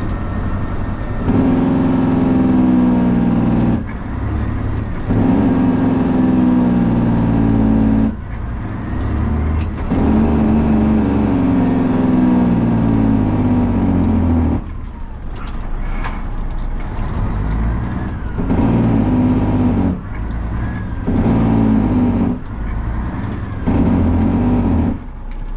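Straight-piped 12.7-litre Detroit Diesel Series 60 inline-six in a Freightliner truck, loud under load as it works up through the gears. The sound drops briefly between each pull at the gear changes, and the later pulls are shorter.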